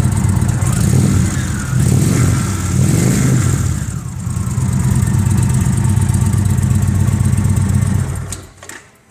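2015 Indian Chief Classic's Thunder Stroke 111 V-twin running through aftermarket CFR split dual exhaust pipes. The throttle is blipped a few times in the first few seconds, the engine settles to a steady idle, and it shuts off about eight seconds in.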